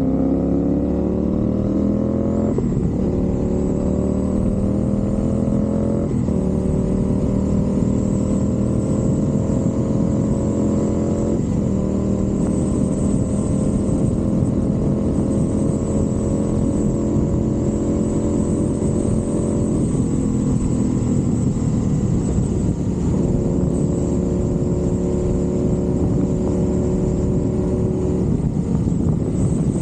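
Motorcycle with a 270-degree-crank parallel-twin engine accelerating through the gears. The engine note climbs steadily in each gear and drops at each upshift, four shifts in all. After the last drop it runs at a steadier pitch.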